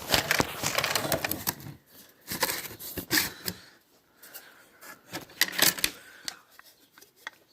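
Handling and rummaging: an irregular series of clicks, knocks and rattles, busy in the first two seconds, then sparser, with a louder clatter about five and a half seconds in.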